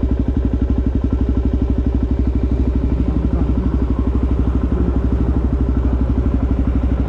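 Single-cylinder four-stroke engine of a Suzuki DRZ400 SM supermoto running steadily at low revs through a Yoshimura exhaust, with an even, rapid pulsing exhaust note.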